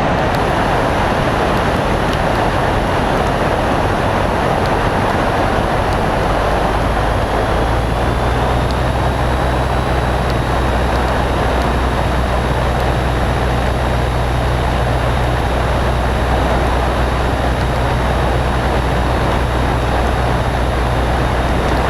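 Steady cabin noise of a Cessna 152 in flight: the Lycoming O-235 engine and propeller drone with rushing air. A deeper steady hum sets in about seven seconds in.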